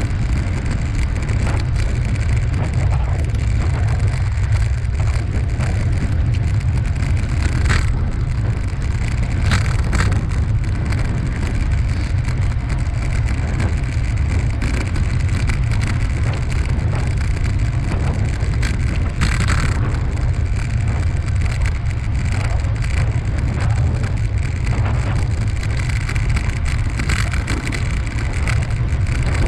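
Steady wind rumble on the microphone of a moving bicycle rider, with a fainter hiss of tyres and air, and a few brief rattles or clicks.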